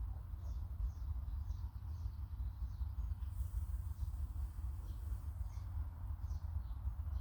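Short, faint bird chirps come irregularly over a steady low rumble.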